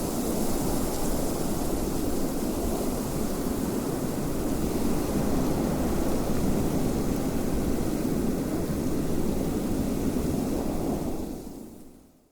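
Steady, low rush of wind that fades out to silence near the end.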